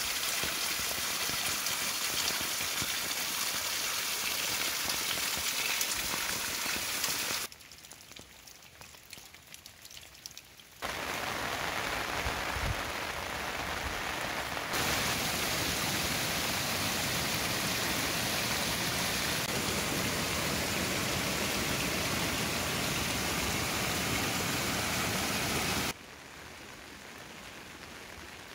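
Steady rain falling on surfaces, a constant hiss. It drops sharply about seven seconds in, comes back a few seconds later and falls off again near the end.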